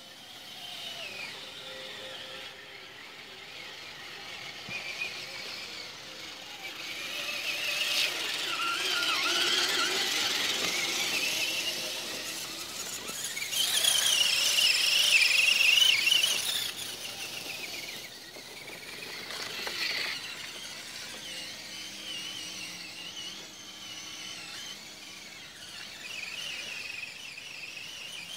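Radio-controlled truck's motor whining at a high pitch, rising and falling with the throttle, loudest about halfway through.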